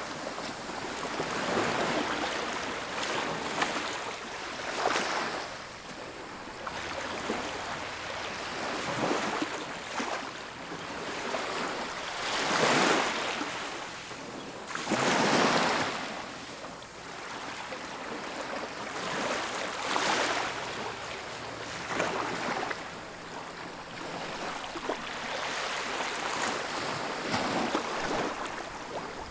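Ocean surf breaking on a beach: a continuous rush of water that swells into louder crashes every few seconds, the loudest two close together about halfway through.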